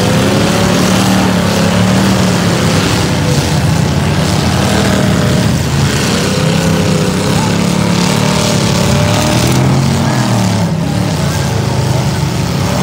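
Several V8 demolition derby cars running and revving up and down again and again as they push through deep mud.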